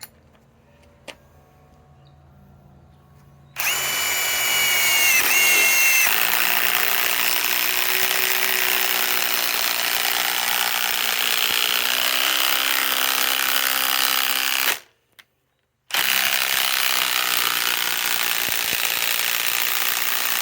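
Ryobi PSBIW25 compact cordless impact wrench driving a fastener. It starts with a whine about three and a half seconds in, then hammers steadily for about eleven seconds. It stops for a second and runs hammering again near the end.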